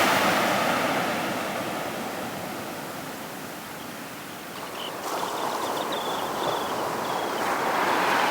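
Sea surf breaking on a beach. The wash swells, eases off, then builds again about five seconds in, with faint short high chirps over it in the second half.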